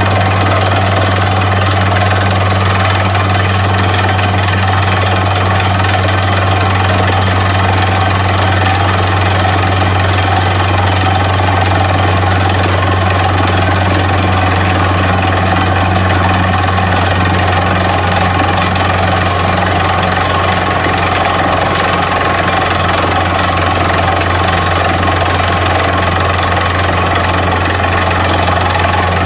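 Borewell drilling rig running steadily: a loud, constant machine drone with a strong low hum and no let-up.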